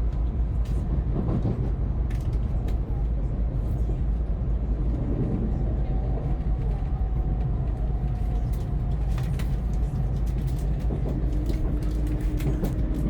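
Nozomi Shinkansen train running, a steady deep rumble heard from inside the passenger cabin.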